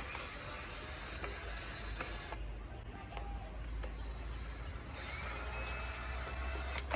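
A tool working a stubborn screw out of a quad bike's body panel: steady scraping and grinding with a few sharp clicks, and a thin whine in the last couple of seconds.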